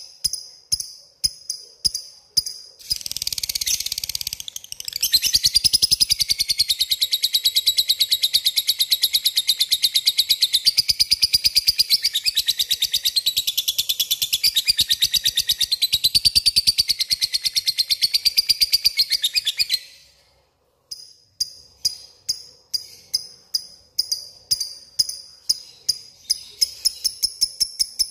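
Lovebird in its long 'ngekek' chattering song: a few separate sharp chirps, then a very fast, high, continuous trill of about fifteen seconds that cuts off suddenly. After a short pause, single chirps resume and quicken near the end.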